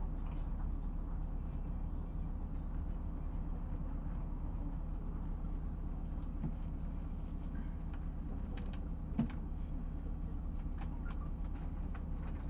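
Cabin noise inside a LiAZ 6213 articulated city bus: a steady low drone from the engine and running gear, with a few light rattles and a sharp click about nine seconds in.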